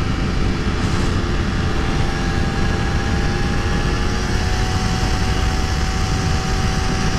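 Honda CBR250RR engine running at a steady high engine speed while cruising on the highway, a continuous even drone, with heavy wind rumble on the helmet microphone.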